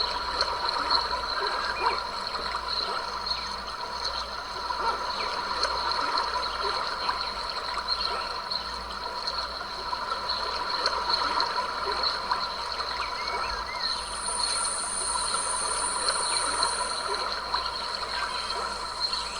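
Small stream trickling and gurgling steadily over rocks. A thin, high, steady tone joins it for a few seconds past the middle.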